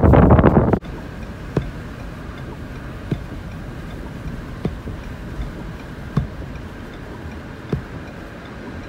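Wind buffeting the microphone for the first second, cutting off abruptly. Then a steady background with a single sharp tick about every second and a half, like a vehicle's hazard-light flasher clicking inside the cabin.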